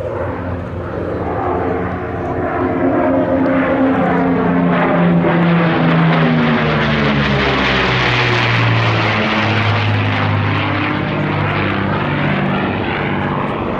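A de Havilland Mosquito's twin Rolls-Royce Merlin V12 engines making a low pass. The engine note builds to its loudest about eight seconds in, and its pitch drops as the aircraft goes by.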